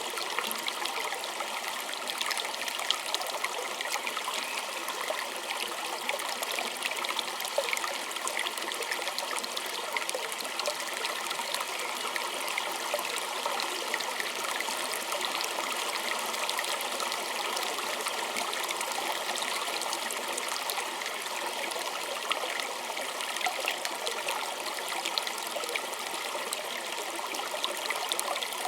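Small stream trickling and splashing over stones, a steady bright bubbling with many small splashes.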